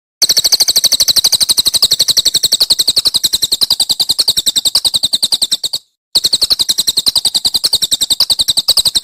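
A songbird's fast, high-pitched run of identical sharp notes repeated at an even rapid rate, the kind of rapid-fire phrase (tembakan) used as masteran to train singing birds. It comes in two long runs with a short break about six seconds in.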